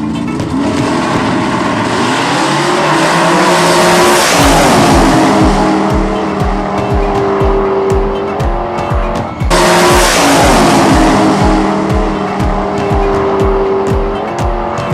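Race car engine sound effects: an engine revs up and holds a high, steady pitch, cuts off suddenly about nine and a half seconds in, then revs up again, with tyre-squeal noise, over music with a steady thumping beat.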